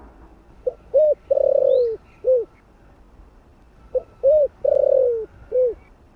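Spotted dove cooing: two repeated phrases, each of two short coos, a longer drawn-out coo that falls at its end, and a closing short coo.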